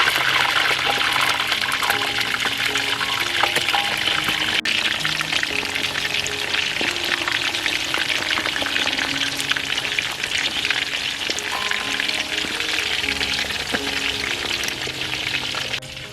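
Food frying in hot oil: a steady, dense crackling sizzle with many small pops, briefly interrupted about four and a half seconds in.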